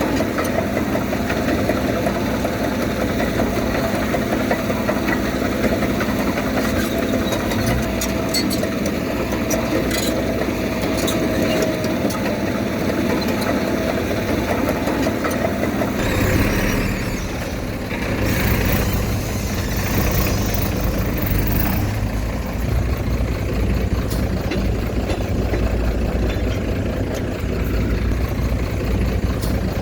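Diesel engine of heavy earthmoving machinery running steadily. About halfway through, the sound turns lower and heavier.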